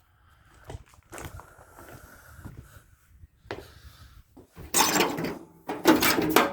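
Sheet-metal clattering and scraping from the hinged hood of a Ford Model A truck being handled open, with a few light knocks and then two loud scrapes near the end.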